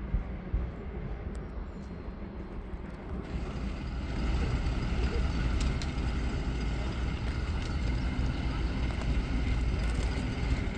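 A train running past with a steady low rumble; it grows louder and hissier about three seconds in.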